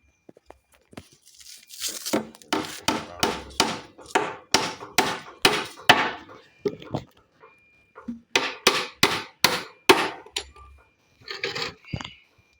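Hammer driving nails into wooden formwork boards: two runs of quick, sharp blows, about three a second, with a short pause between.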